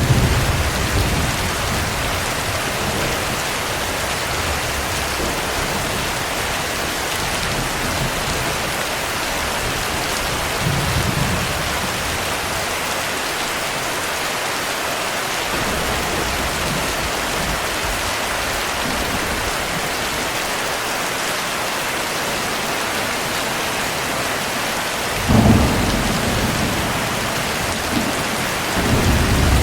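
Steady heavy rain with low rolls of thunder: one about a third of the way in, a louder one near the end, and another just before it stops.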